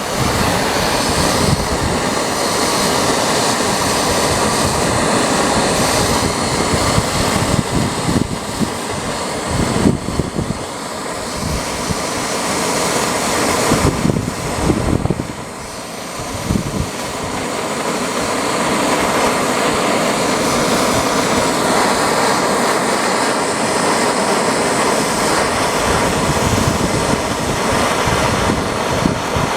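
Gas torch flame hissing steadily while soldering a copper wire plug into a hole in sheet-steel door skin, the noise dipping briefly about halfway through.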